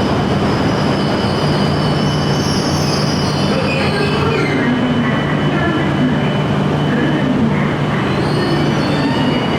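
Shinkansen train moving slowly through the station, steel wheels squealing on the rails over a steady motor hum.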